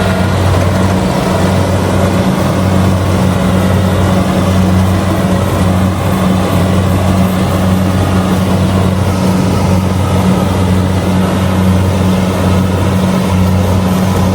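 Kubota DC70G combine harvester running steadily while harvesting rice. Its diesel engine and threshing machinery make a loud, even drone with a deep hum underneath.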